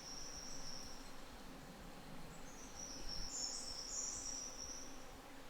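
High-pitched insect song, shrill, thin trills. One fades out about a second in, and another starts about two and a half seconds in and fades just before the end, with a second, higher-pitched voice joining briefly partway through.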